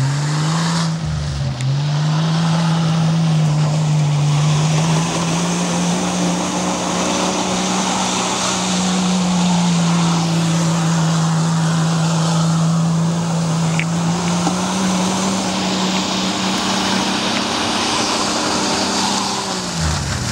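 Jeep Cherokee XJ engine held at high, steady revs as the vehicle slides through mud, over a continuous hiss of spinning tyres throwing mud. The revs dip briefly about a second and a half in, creep up slowly, and drop near the end.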